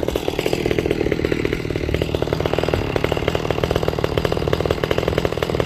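Ported Echo CS-670 two-stroke chainsaw with a modified exhaust pipe, running steadily in a rapid, even stream of firing pulses.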